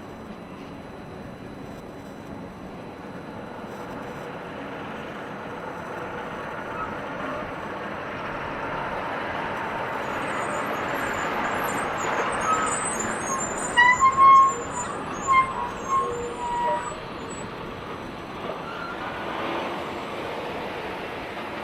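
Heavy truck traffic on a road, one big rig passing close with its engine and tyre noise swelling and then fading. Several short, loud, high-pitched tones sound about two-thirds of the way through.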